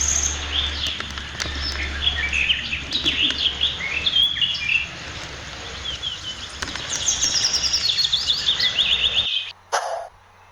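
Birds chirping and singing in quick series of short notes, some runs stepping down in pitch, over a steady low hum. Near the end the sound cuts off suddenly, leaving a few brief clicks.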